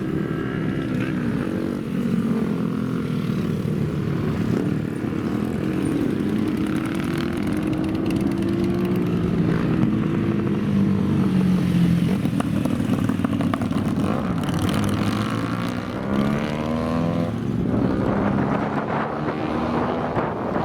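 Motorcycle engines running and revving, the pitch rising and falling several times, with a quick climb in revs near the end.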